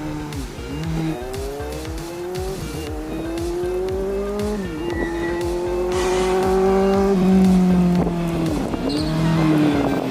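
Kawasaki Z900 inline-four with a three-inch slip-on can exhaust, accelerating through the gears. The exhaust note climbs in pitch and drops back sharply at each shift, about four times.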